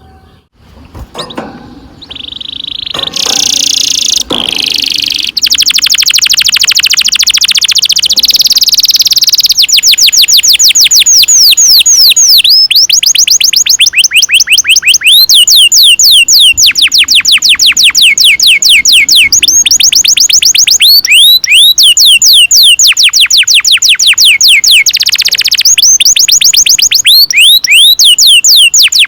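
Domestic canary singing long rolling trills: very fast runs of repeated down-slurred notes, in long phrases with brief breaks. It opens with a few short notes and a held high note.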